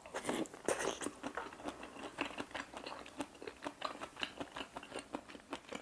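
A person chewing a mouthful of seafood aglio e olio (thin noodles with shrimp and mussels in olive oil) close to a clip-on microphone: an irregular run of small mouth clicks and smacks, several a second.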